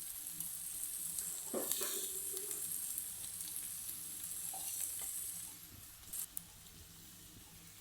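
Onions, garlic and ginger sizzling in hot oil and butter in a pan while being stirred, with a steady high hiss. The sizzle drops to a quieter level about five and a half seconds in, with a couple of faint clicks after.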